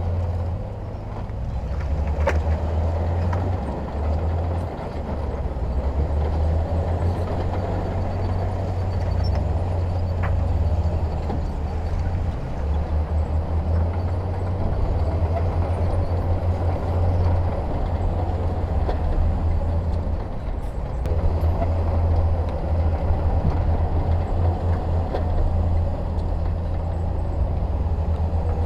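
Heavy diesel engine of earthmoving machinery running, a deep low rumble that swells and eases unevenly, with a few faint sharp clicks.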